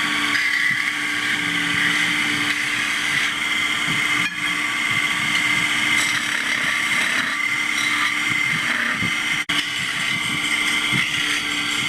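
Factory machinery running with a steady whirring hum, briefly cut off about four seconds in and again about nine and a half seconds in.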